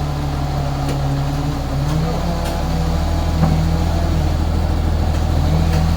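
Machinery engine running with a steady low drone, its pitch stepping up slightly about two seconds in.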